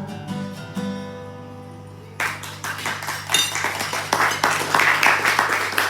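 Final guitar chord ringing out and fading, struck once more just under a second in, then an audience bursts into applause about two seconds in, the clapping growing louder.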